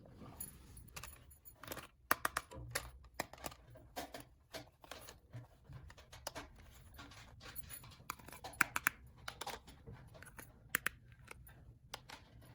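Small toy pieces being handled: irregular light clicks and taps, several a second at times, with brief pauses between.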